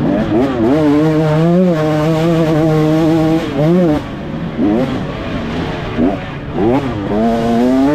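Motocross dirt bike engine running hard, its pitch holding steady for stretches and then rising and dropping sharply several times as the throttle is worked.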